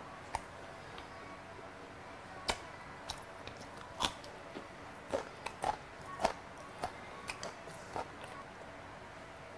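Close-up eating sounds: chewing with a dozen or so sharp, crisp crunches, most of them bunched between about two and eight seconds in, as a raw green chili pepper is bitten and chewed.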